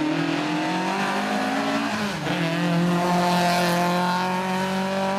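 Lada rally car's inline-four engine running hard at high revs as the car passes through a corner. The pitch dips briefly about two seconds in, then climbs and holds high again.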